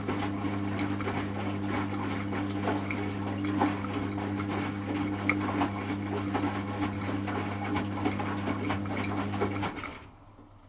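Servis Automatic M3008B washing machine in its final rinse: the drum turning with water sloshing and wet clothes tumbling over a steady motor hum, then the drum stops about ten seconds in.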